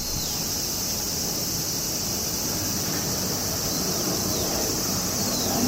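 Steady high insect chorus buzzing, over wind rumbling on the microphone, with a few short falling chirps.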